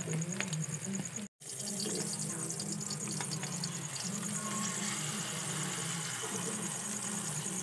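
Egg and mung bean sprout omelette sizzling in hot oil in a frying pan, a steady hiss with a low wavering hum underneath. The sound cuts out completely for a moment about a second in.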